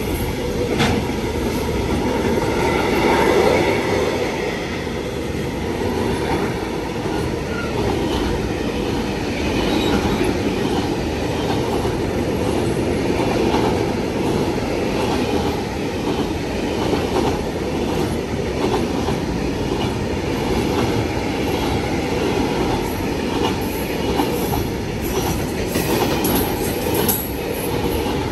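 Train running through a station without stopping: a steady, loud rumble of wheels on rails, with some wheel squeal and clatter, and a few sharp high screeches near the end.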